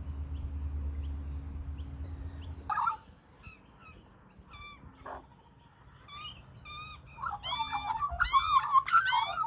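Birds calling: a run of short high chirps, about three a second, over a steady low hum that stops suddenly about two and a half seconds in; then scattered calls, and near the end a burst of loud, rapid calls.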